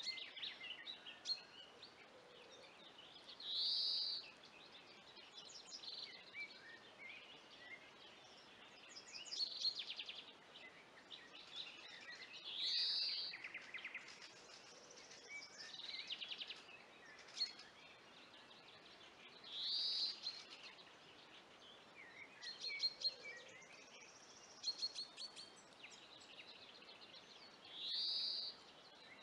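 Several songbirds singing. One repeats a short call about every eight seconds, the loudest sound here, while others add rapid high trills, over a faint steady hiss.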